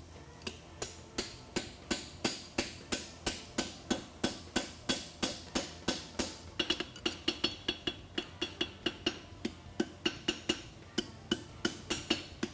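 Blacksmith's hammer striking hot steel on an anvil in a steady run of blows, about three a second, closing a thin folded-over scarf to forge-weld the lateral support of a concave horseshoe. From about halfway each blow leaves a short metallic ring.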